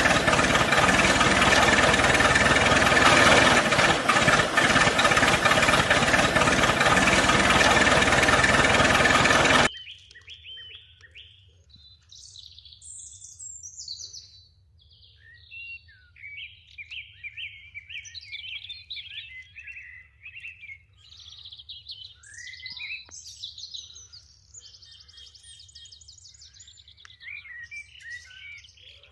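The small engine of a homemade mini tractor running loud and steady, then cutting off abruptly about ten seconds in. Birds chirp and call for the rest, over a faint low hum.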